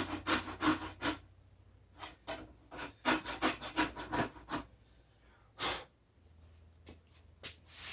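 Hand hacksaw strokes carving out a hole, in two quick runs of about three to four strokes a second, then a single stroke and a few light clicks near the end.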